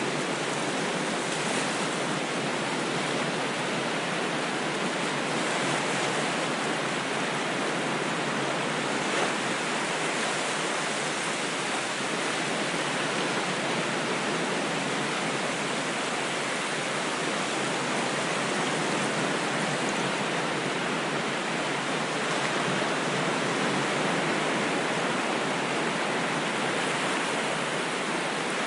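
Ocean waves as a steady, even rush of water noise with no distinct breaks or crashes.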